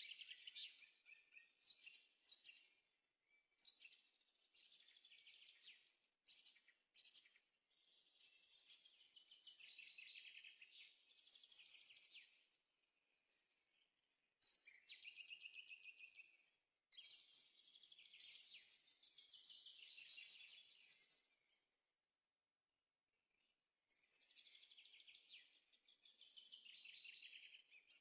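Faint songbird singing in long phrases of rapid, high trills, repeated with short pauses between them.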